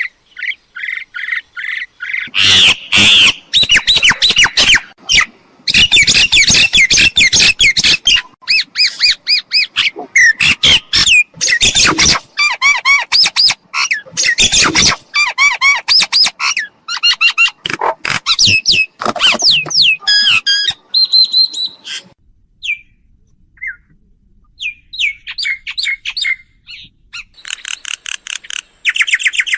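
Mynas calling: a loud, rapid string of harsh squawks, chatters and whistled notes, thinning to scattered calls about two-thirds through and picking up again near the end.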